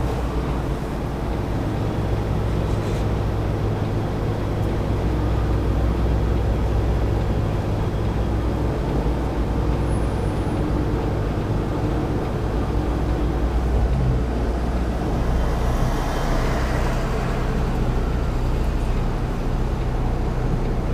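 Semi-truck's diesel engine running steadily, heard from inside the cab, with a low, even hum.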